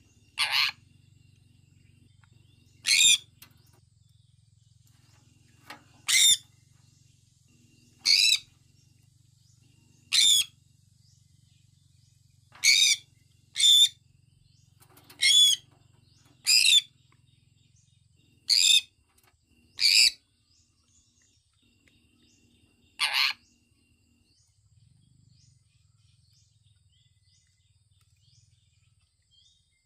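Sun conure giving about a dozen short, loud, shrill calls, one every one to three seconds, which stop about two-thirds of the way through.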